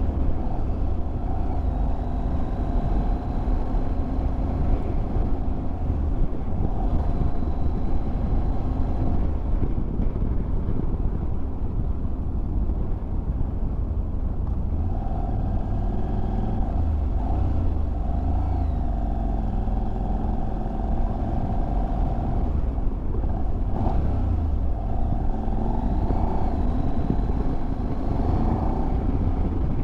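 Motorcycle engine running at a steady road speed while riding, its pitch shifting a few times. Heavy wind rumble on the microphone lies under it.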